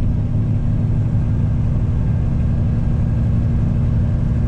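Semi truck's diesel engine running steadily under load, heard from inside the cab as a constant low drone.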